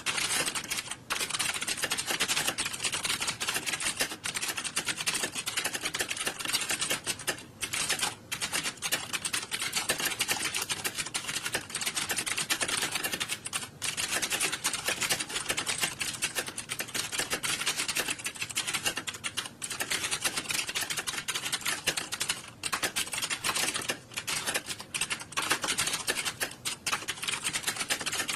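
Many computer keyboards being typed on at once: a dense, continuous clatter of overlapping key clicks, with a few brief lulls.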